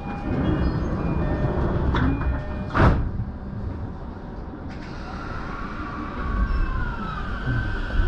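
Electric commuter train at a station platform. Several steady high tones sound over the first few seconds, and the doors shut with a sharp thud about three seconds in. From about halfway through, a steady electric motor whine comes in as the train starts to pull away.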